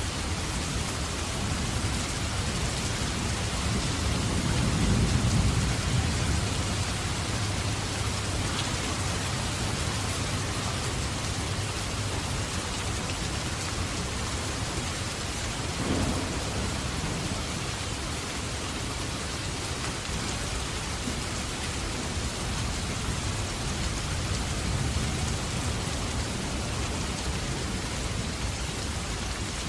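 Steady rain falling, with a low rumble swelling and fading about five seconds in, and one short sharp crack near the middle.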